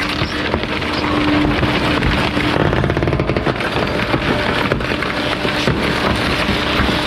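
Bulky-waste garbage truck's compactor crushing a load: dense crackling and crunching, with a rapid run of clicks midway, over a steady hum.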